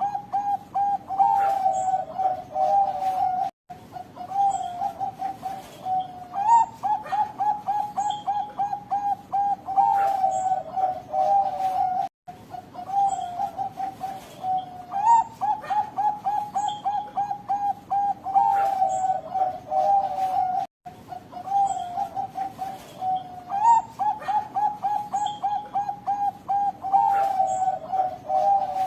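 Zebra dove (perkutut, Bangkok Golden type) cooing in repeated phrases of rapid notes, each phrase ending in drawn-out notes, with faint high chirps above. The song breaks off three times for a brief silent moment.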